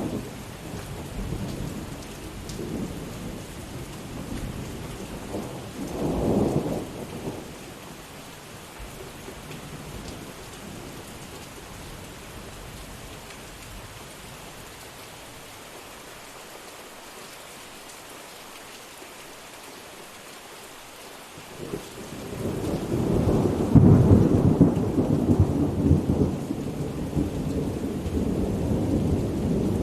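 Steady rain falling during a thunderstorm, with thunder rumbling: a short roll about six seconds in, and a long, louder roll beginning about two-thirds of the way through that peaks soon after and slowly fades.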